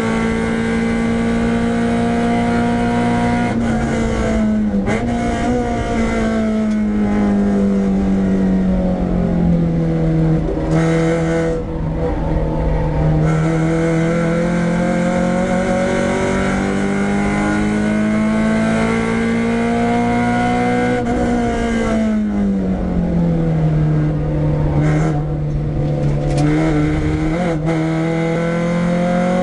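Renault Clio 172's two-litre four-cylinder engine running hard at high revs on track. The revs drop twice under braking, then climb steadily again as the car accelerates.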